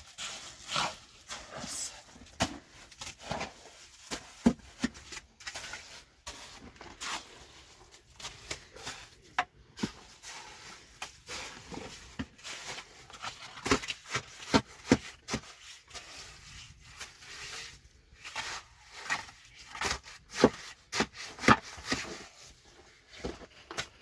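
Irregular knocks, taps and scrapes of hand building work with cement, tools and materials, some knocks much louder than others.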